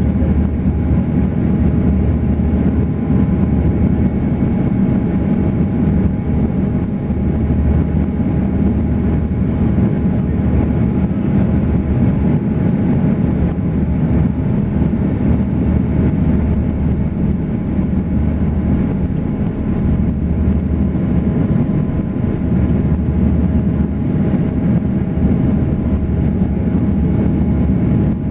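Airbus A340 airliner in flight, a continuous deep rumble of engines and airflow with several steady hum tones over it and no change in level.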